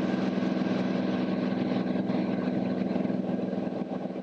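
Cirrus SR22T's turbocharged six-cylinder engine and propeller droning steadily in the cockpit, with a constant low hum; it eases off slightly near the end.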